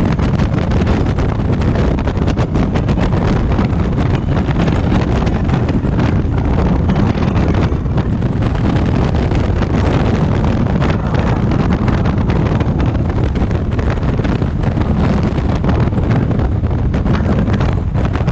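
Heavy wind buffeting on the microphone of a moving motorcycle, a Honda African Twin, with its engine running steadily underneath.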